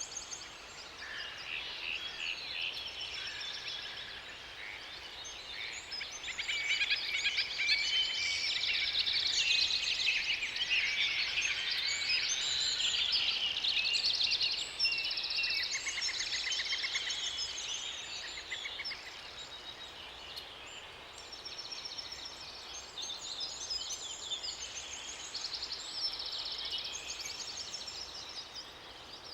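Forest songbirds singing together, several overlapping trills, rapid chirps and whistles, busiest in the middle stretch.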